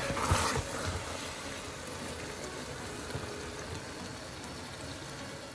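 Minced lamb frying in oil in an enamelled pot: a steady sizzle, with a few low knocks from a wooden spoon stirring it in the first half second.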